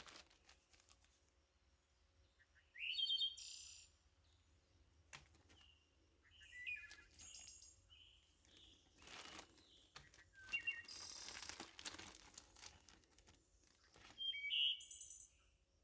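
A small bird chirping in several short bursts of high, rising notes. Between the chirps, thin plastic zip-top bags crinkle as they are handled.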